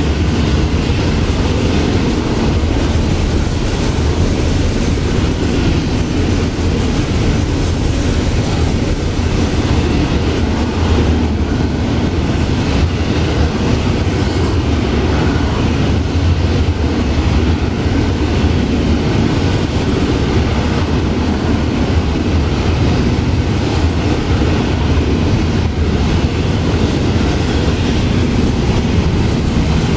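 Long Florida East Coast Railway freight train rolling past. The cars keep up a steady, loud rumble, with the wheels clicking and clattering on the rails throughout.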